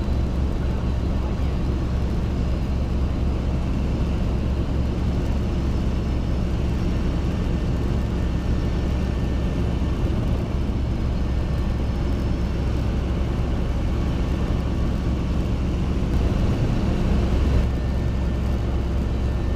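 Steady cabin noise of a Robinson R22 helicopter running: a low, even drone from the piston engine and rotors, swelling slightly near the end.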